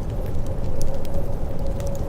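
Fireplace crackling, with scattered quick pops and snaps over a steady low rumble and a faint steady hum.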